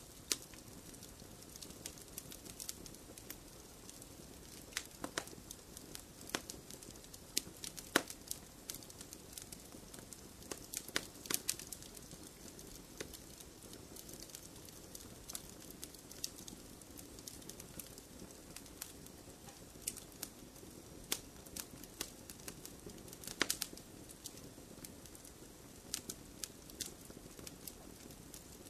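A fire in a fireplace crackling, with a steady soft hiss of flames under irregular sharp pops. A few pops stand out louder, around eight seconds, eleven seconds and twenty-three seconds in.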